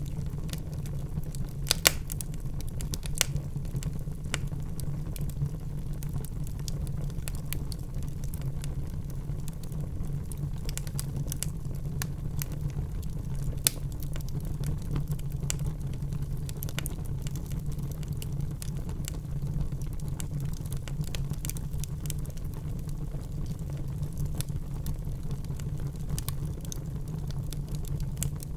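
Wood fire in a fireplace crackling, with irregular sharp pops and snaps over a steady low rumble of burning; the loudest pops come about two seconds in and about halfway through.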